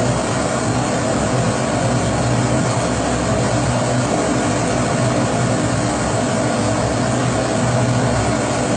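Pressurised kerosene stove (Primus-type burner) burning with a loud, even rushing noise and a low hum underneath, unchanging throughout.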